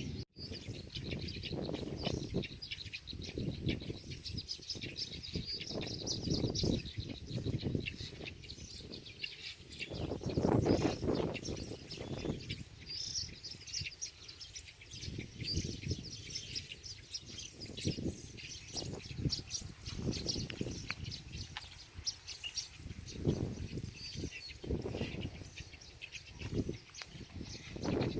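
Many birds chirping and singing together, over gusts of wind rumbling on the microphone, the strongest gust about ten seconds in.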